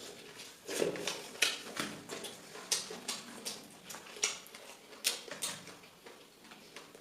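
A person eating close to the microphone: chewing and lip-smacking, heard as irregular sharp smacks and clicks, a few a second.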